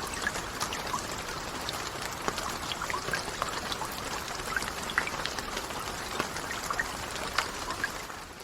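Steady rainfall, an even hiss with many individual drops pattering and ticking close by. It begins to fade out at the very end.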